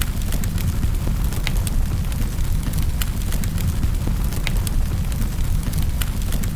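Wood fire burning in a fireplace: a steady low rumble of flames with sharp, irregular crackles and pops, several a second.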